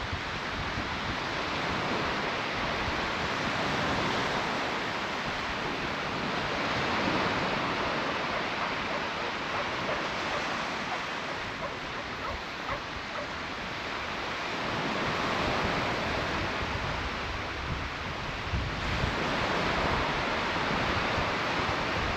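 Surf breaking and washing up a beach, swelling and fading every few seconds, with wind rumbling on the microphone.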